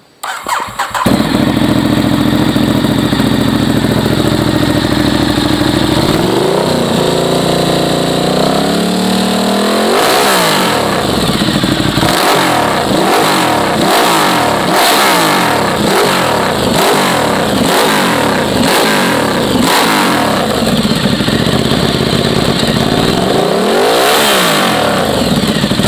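Ducati Diavel's L-twin engine through a Werkes USA GP aftermarket exhaust. It starts right at the beginning and idles steadily, then is held at raised revs for a few seconds about six seconds in. From about ten seconds in it is blipped again and again in quick rev rises and drops.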